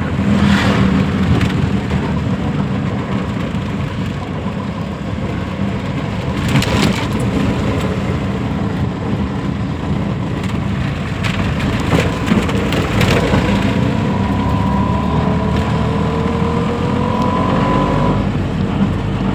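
Road vehicle running, heard from on board: a steady rumble with occasional knocks and rattles. Near the end a whine rises slowly in pitch for a few seconds.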